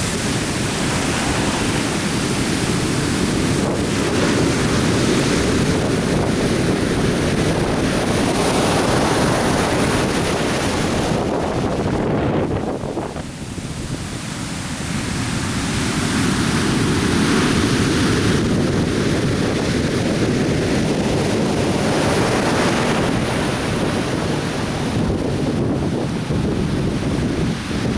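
Atlantic Ocean surf breaking on a beach: a continuous wash of waves that eases briefly about halfway through, then builds again.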